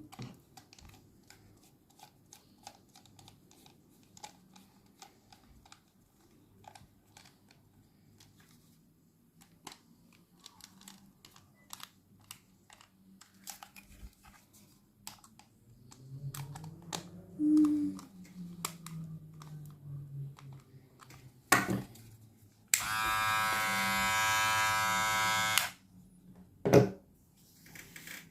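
Small plastic and metal clicks of a Gamma+ Skin electric grooming device being handled. About three quarters of the way in it is clicked on and its motor runs steadily for about three seconds, then a loud click follows.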